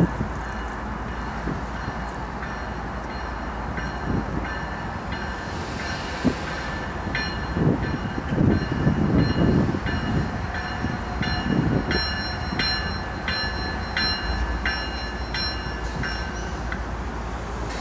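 CSX GE freight locomotives, an ES44AH leading a CW44AH, approaching slowly, their diesels running with a steady rumble and low thumps from the wheels. From about seven seconds in, a bell rings about twice a second.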